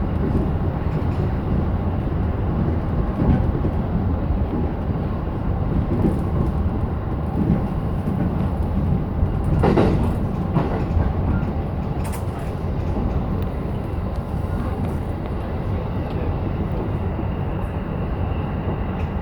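JR E233-7000 series electric train running along the line, heard from inside the lead car: a steady rumble of wheels on rail, with a couple of sharp knocks from the wheels about ten and twelve seconds in.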